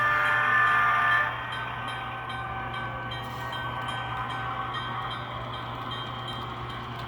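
HO scale Rapido FP9A model locomotive's DCC sound decoder sounding its horn in a chord that cuts off about a second in. Then the decoder's diesel engine sound runs steadily as the model gets moving, with a regular light clicking.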